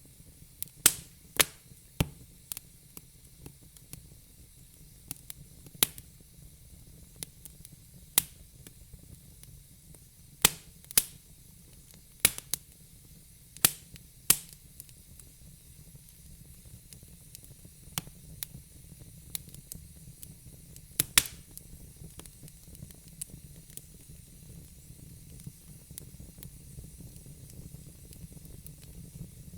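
Fire crackling: irregular sharp pops and snaps over a faint steady hiss. The pops come thick in the first half and thin out to occasional ones later.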